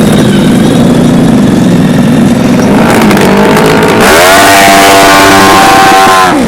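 Dirt bike engine at full throttle: a rough rasp at first, then the revs climb about three seconds in and are held high before dropping off near the end.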